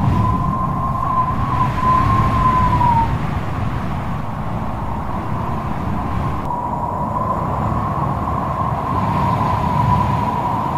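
Strong wind whistling: a thin, wavering high tone that dips and fades about three seconds in and comes back a few seconds later, over a steady low rumble of wind.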